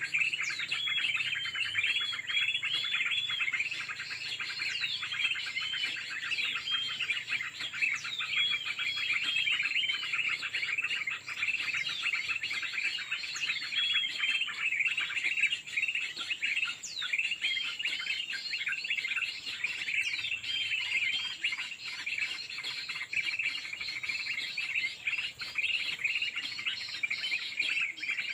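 Small birds chirping and calling in a dense, continuous chorus, with short arched whistled notes repeated in quick runs over the top, and a steady high-pitched hum underneath.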